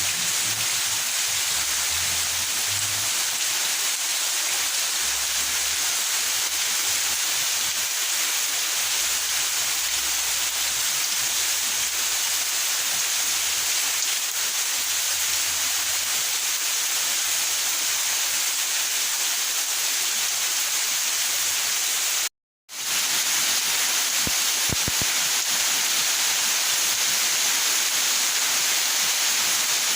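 Steady rain falling, an even hiss, cutting out for a split second about two-thirds of the way through.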